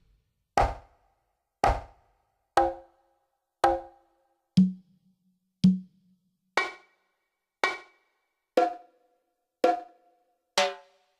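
Yamaha PTX8 electronic percussion pad sounding single drum and percussion voices, one sharp hit about every second. Each voice is struck twice before moving to the next, so the pitch and tone change every two hits.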